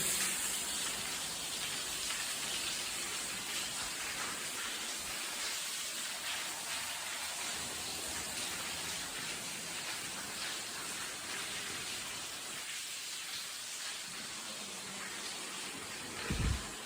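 Steady hiss of water dripping and trickling inside an old railway tunnel. A short low thump comes near the end.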